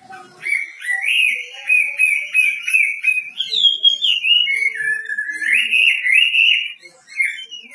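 A pet songbird singing a long, unbroken run of whistled, warbling phrases. It climbs higher in pitch about three and a half seconds in, then dips lower before rising again.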